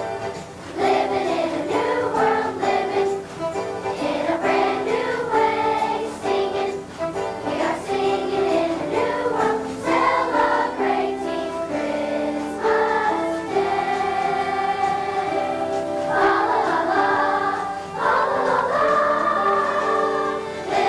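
Children's choir singing a song, many voices together holding and moving between notes.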